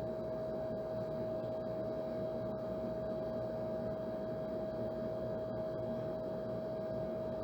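Old air conditioner running steadily: an even rushing whir with a constant mid-pitched whine riding over it.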